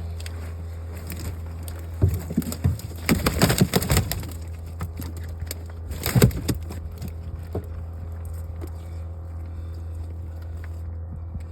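A boat motor hums steadily at idle while hard knocks and clatters come in a flurry from about two to four seconds in and again near six seconds.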